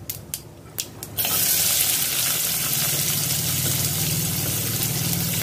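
A few light clicks, then chopped onion hits hot oil in a frying pan and a steady sizzle starts suddenly about a second in and keeps going.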